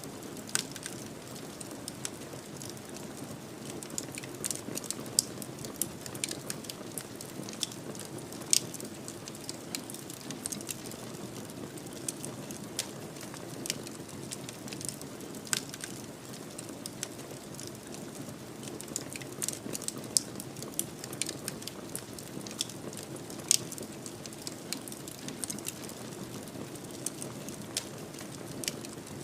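Fireplace fire crackling: irregular sharp pops and snaps, some louder than others, over a steady low rushing of the flames.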